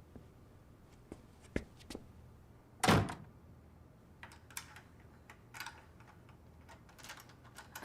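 A few soft knocks, then one loud thud about three seconds in, followed by scattered small clicks and rustles.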